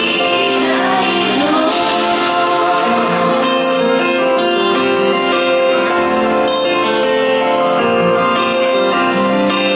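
Slow ballad played live: a woman singing over keyboard accompaniment. Her voice drops out about three seconds in, and the keyboard carries on alone with sustained chords.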